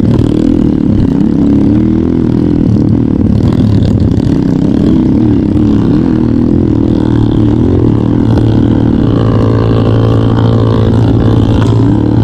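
Trail motorcycle engine running under way, its pitch rising and falling a little with the throttle.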